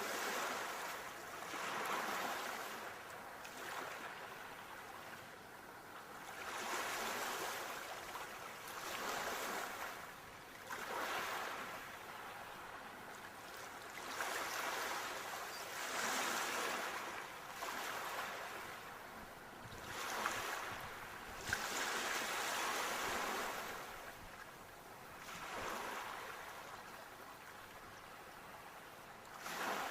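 Sea waves breaking and washing on a shore, each surge swelling and fading every few seconds.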